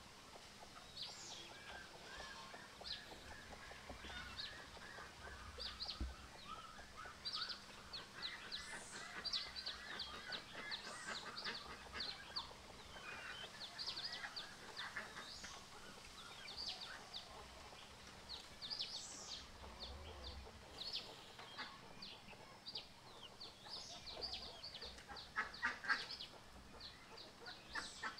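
Faint bird calls: many short, high chirps in quick succession, with a run of rapid lower calls near the end.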